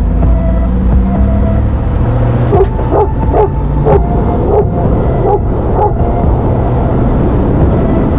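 Cane Corso barking, a run of about seven deep barks in the middle, over a steady low rumble of a vehicle running.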